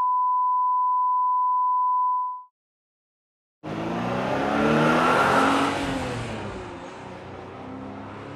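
A steady, high-pitched test-tone beep that fades out and stops about two seconds in. After a second of silence, a car engine revving starts abruptly, loudest around five seconds in, then easing to a lower steady run.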